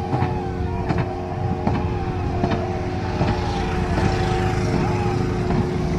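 Boat race crew's stroke rhythm: sharp strikes about once every three-quarters of a second, each with a short rising-and-falling call, over a steady hum.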